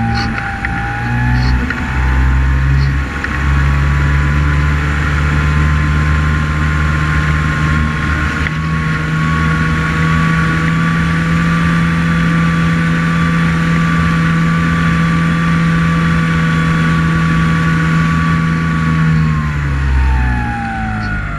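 Multirotor drone's motors and propellers whining steadily. The pitch edges up over the first few seconds, holds, then drops a little before the end as the motors slow.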